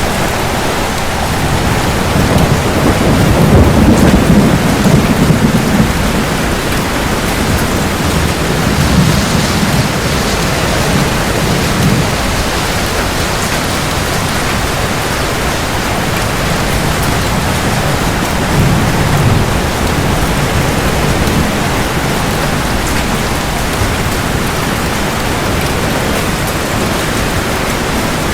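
Heavy rain falling steadily, with thunder rumbling low several times; the loudest roll comes a few seconds in, and weaker ones follow near the middle.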